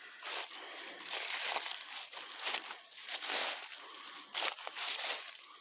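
Footsteps crunching through dry leaf litter on a forest trail, an irregular run of crinkling crunches.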